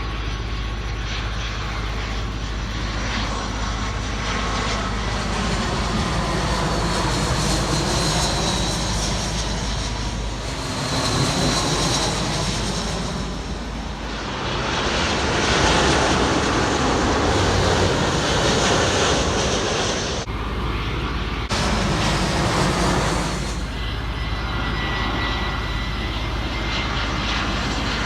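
Jet airliner on landing approach, its engines running as it passes with a high whine. The noise swells to its loudest around the middle and then eases off.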